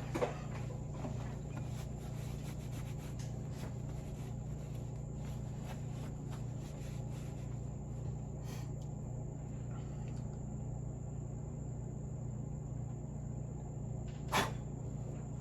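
A steady low background hum with a faint high whine, and scattered light clicks. Two sharper knocks, one just after the start and one near the end, come from small metal steering-box parts being handled on the workbench.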